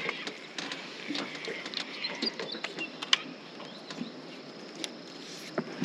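Outdoor background hiss with scattered small clicks and knocks and a few faint bird chirps.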